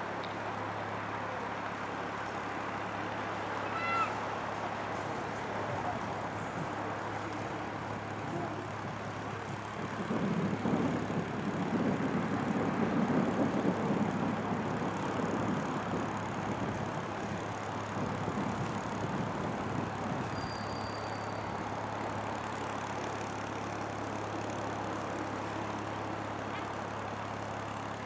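Narrowboat's diesel engine running with a steady low drone, growing louder around the middle as the boat passes closest. A short bird call cuts in about four seconds in.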